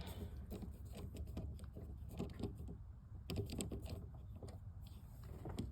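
Irregular small metallic clicks and scrapes of a screwdriver working a screw out of a truck's door handle, over a steady low rumble.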